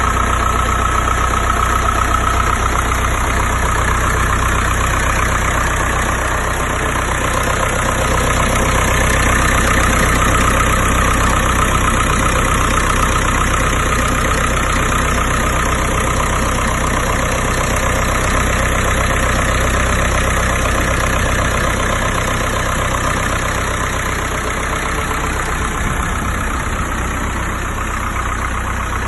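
1971 Land Rover Series II 109 engine idling steadily.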